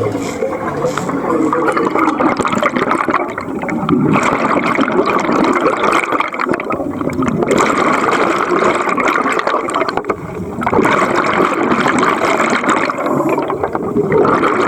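Water churning and gurgling right at an underwater camera, in surges that ease off briefly every three seconds or so.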